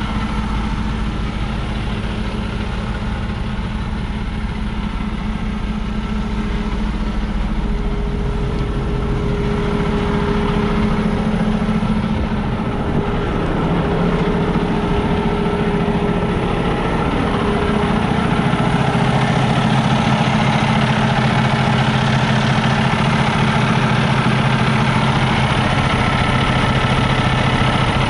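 Semi truck's diesel engine idling steadily, its tone shifting a little about halfway through.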